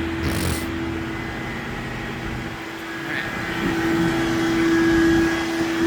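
A vehicle engine running with a steady hum that grows louder over the second half.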